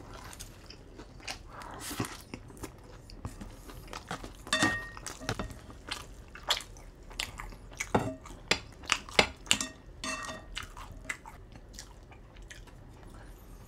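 A person chewing and crunching a mouthful of kimchi-topped pizza close to the microphone: irregular short crunches and mouth clicks, busiest in the middle.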